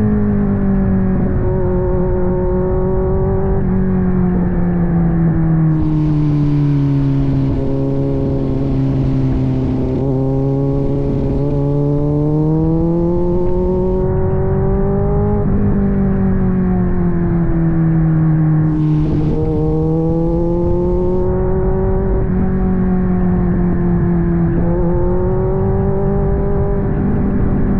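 Kawasaki Z900 inline-four engine running through an aftermarket AR exhaust while riding; the engine note sinks and then climbs back up twice as the throttle is eased off and opened again. A rushing hiss joins it for several seconds in the middle and again briefly later.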